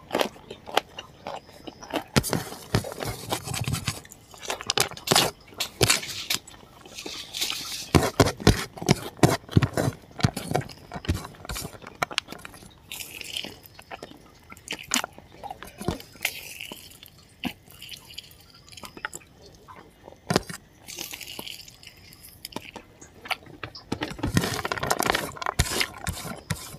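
Close-miked eating sounds: crisp crunching and wet chewing as a person bites into a raw green chili and eats rice by hand. Many short sharp clicks throughout, busiest in the first third and again near the end.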